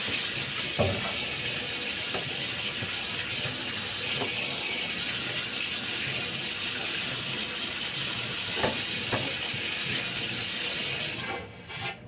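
Water running steadily from a tap into a sink, with a few light knocks of things being handled under the stream. The tap shuts off near the end.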